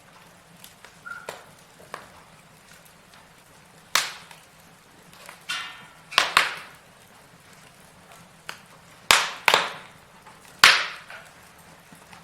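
Burning wood logs in a fireplace crackling over a low hiss, with sharp irregular pops. The loudest come in quick pairs about two-thirds of the way through and a single big crack near the end.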